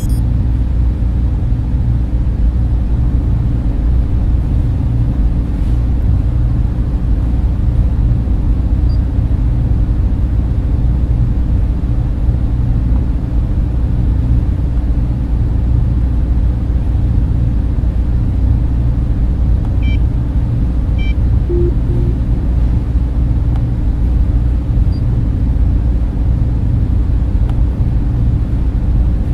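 Cooling fans in a server room running steadily, a constant low rush and hum that stays even throughout.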